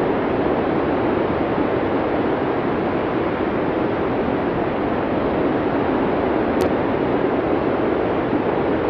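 Blizzard wind ambience: a steady, even rush of wind-driven noise without gusts or pauses. One faint click about two-thirds of the way in.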